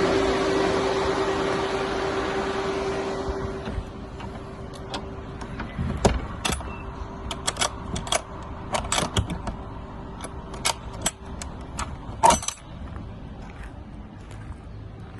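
A steady fan-like hum that dies away over the first few seconds, followed by a run of irregular clicks and knocks, with the two loudest knocks about six and twelve seconds in.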